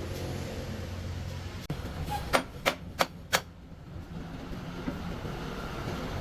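Four quick, sharp knocks, about three a second, a little over two seconds in, over a steady low hum.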